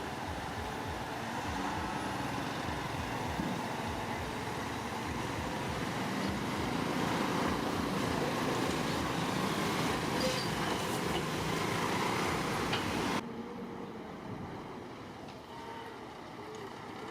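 Heavy diesel construction machinery running, growing louder for about thirteen seconds, then cutting off abruptly to a quieter engine sound.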